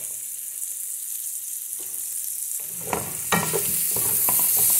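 Shrimp, onion and bell peppers sizzling in oil in a pot. About three seconds in, a spoon starts stirring and scraping through the pan in short strokes, and the sizzling grows louder.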